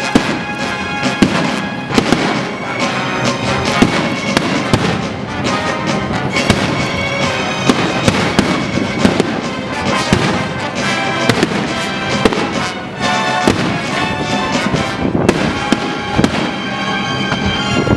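Fireworks display: repeated bangs and crackling bursts throughout, over loud music playing continuously.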